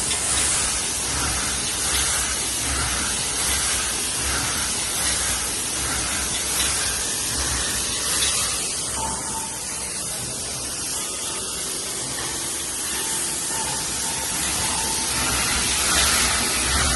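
SGL-104B rotary automatic silk screen printing machine for glass bottles running, a steady hiss with a regular mechanical pulse as its stations and unloading robot cycle.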